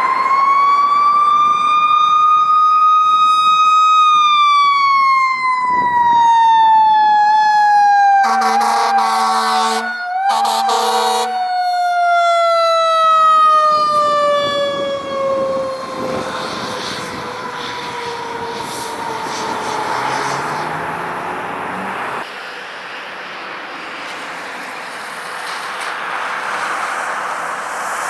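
Fire truck siren winding up to its peak, then slowly falling in pitch as it coasts down. Two blasts of the truck's air horn come about eight and ten seconds in, and vehicle noise carries on after the siren fades.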